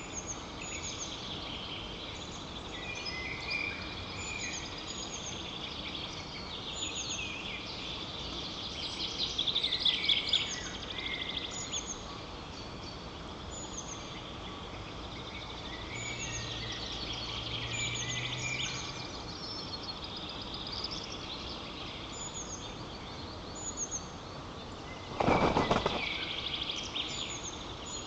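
Songbirds singing in woodland: many short, high phrases from several birds overlapping over a steady background hiss. A brief, loud rattling burst comes about 25 seconds in.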